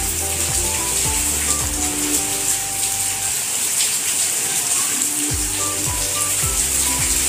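Hot oil sizzling steadily as besan-coated raw banana slices shallow-fry in a pan, with background music playing over it.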